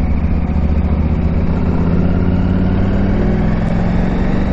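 KTM 890 Adventure R's parallel-twin engine running at a low, steady pace while riding, its pitch rising gently through the middle.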